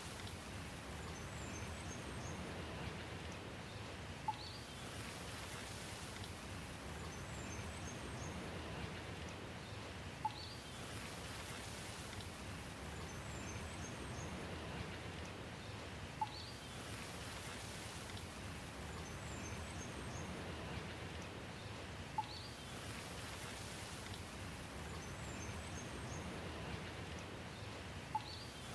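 Steady rain, with a bird's short high chirps coming back about every six seconds, each time just after a sharp click, as the same few seconds of sound repeat.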